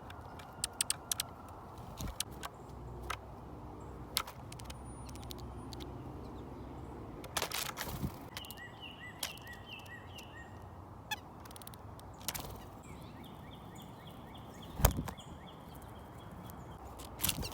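Small backyard birds giving short repeated chirps in two runs, midway and toward the end, with sharp clicks and taps scattered throughout, the loudest a knock near the end, over a steady low background hum.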